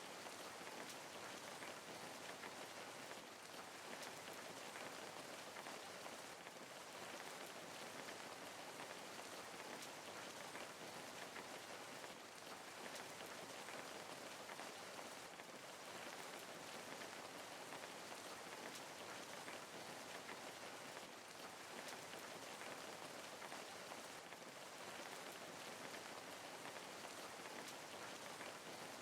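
Steady rain falling, an even patter of raindrops on a surface with no change in intensity.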